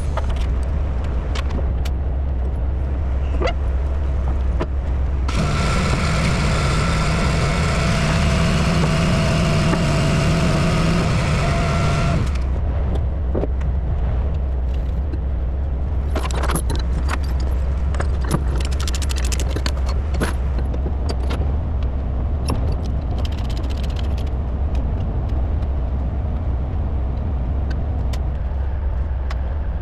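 Heavy diesel engine running steadily with a deep rumble. From about five to twelve seconds in it grows louder with a steady whine on top, then drops back. Scattered metallic clicks and clanks follow.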